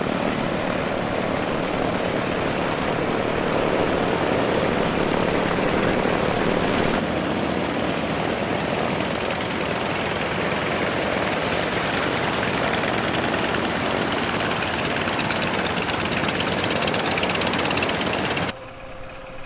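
Piston engines of a propeller aircraft running, a loud steady rapid throb that drops away sharply near the end.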